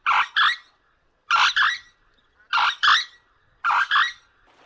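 Common crane calling: four loud trumpeting calls, each a quick pair of notes, coming about once every second and a quarter.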